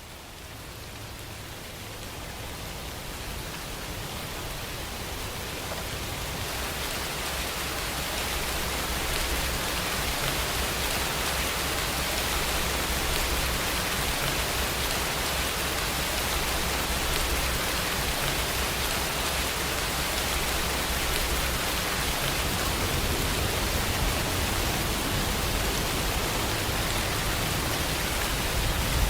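Steady rain falling, fading in over the first several seconds and then holding steady.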